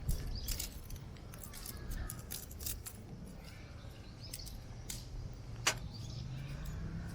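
Campfire crackling with scattered irregular snaps as a branch is tried on the dying fire, with one sharper snap a little before six seconds in, over a low rumble of strong wind on the microphone.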